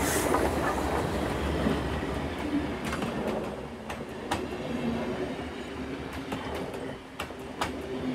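Steam-hauled train rolling along the track, loudest in the first two seconds, then a steadier rumble with a few sharp clicks of wheels passing over rail joints.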